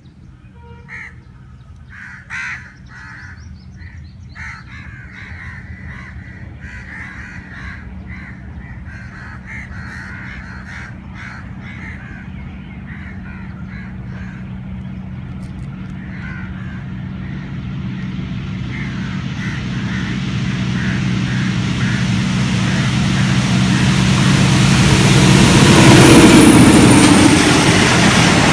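ZCU-20 diesel-electric locomotive heading an express train, approaching from far off. Its engine hum grows steadily louder, and wheel and rail noise rises to a peak near the end as it passes close by. Bird calls are scattered through the first half.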